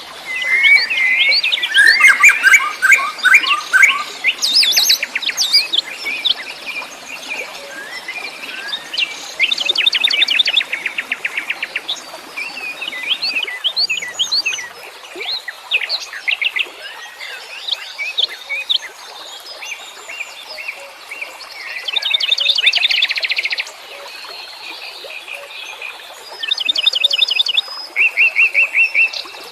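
Several wild birds singing at once: a mix of quick chirps and short gliding whistled notes, broken by rapid buzzy trills that recur every few seconds, the loudest bunch of them in the first few seconds.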